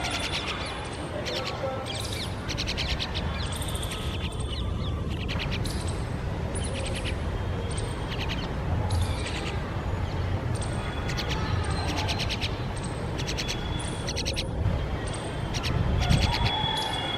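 Myna birds calling, a string of harsh, rasping calls repeated roughly once a second, over a steady low rumble.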